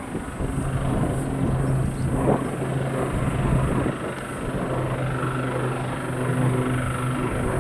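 Aircraft engines running with a steady low drone, over uneven wind rumble on the microphone.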